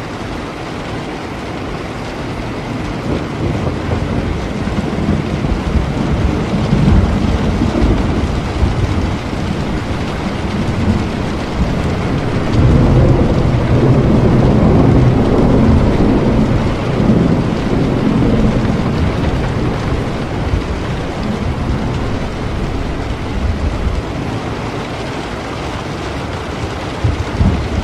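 Steady rain with a long rolling rumble of thunder that builds a few seconds in, is loudest around the middle, and fades away over the last several seconds.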